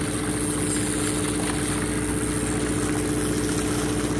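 A fishing boat's engine running steadily: a constant low hum with a steady tone.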